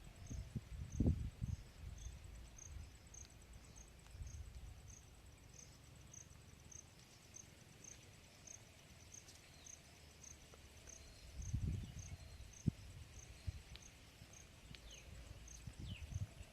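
Outdoor rural ambience. A faint high insect chirp pulses evenly, somewhat under twice a second, over a faint steady high whine. A few quick bird chirps come near the end, and low rumbles or thumps come about a second in and again around twelve seconds.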